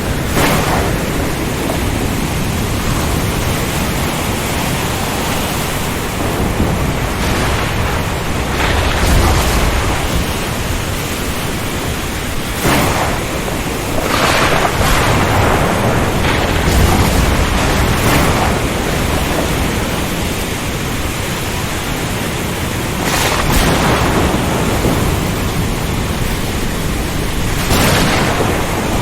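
Storm at sea: a steady roar of wind, rain and surf, swelling in surges every few seconds, with low rumbles of thunder.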